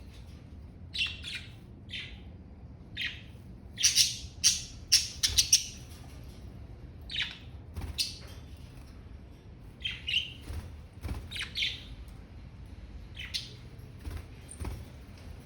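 Pet budgerigars chirping and squawking in short bursts, several calls in quick succession around four to five seconds in, then scattered calls.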